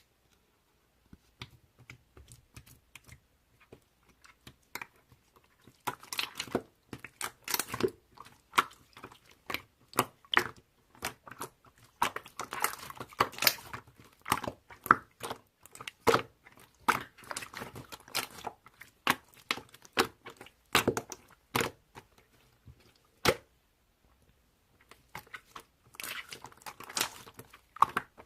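Close-up crackling and crunching: many short, sharp, irregular clicks and crinkles. They are sparse at first, dense from about six seconds in, and stop briefly before starting again near the end.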